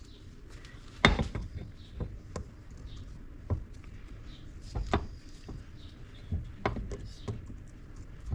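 Hand tools and metal parts knocking and tapping on a water pump casting on a workbench: a handful of separate sharp knocks, the loudest about a second in.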